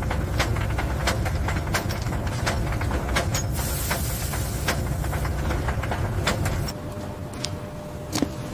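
Low steady mechanical rumble with scattered sharp clicks and clanks; the rumble drops away about seven seconds in.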